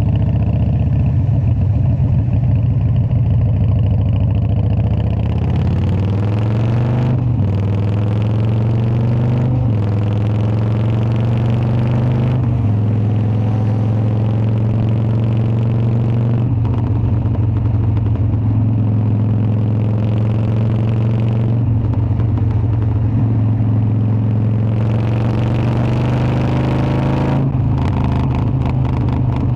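Harley-Davidson Dyna V-twin engine running steadily, then accelerating through the gears: its pitch climbs three times with short breaks at the upshifts, about 7, 9 and 12 seconds in, before it settles into a steady cruise.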